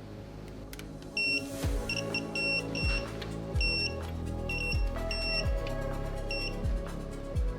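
Digital torque wrench beeping in short, irregular runs of high electronic beeps as the main bearing cap bolts are torqued to spec, over background music with a repeated falling bass.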